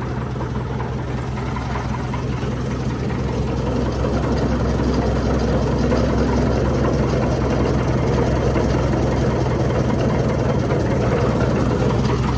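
Engine idling steadily, a little louder from about four seconds in.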